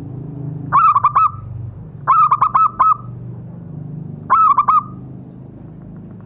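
Zebra dove (perkutut) cooing: three short phrases of quick, clipped coos a second or two apart, over a steady low rumble.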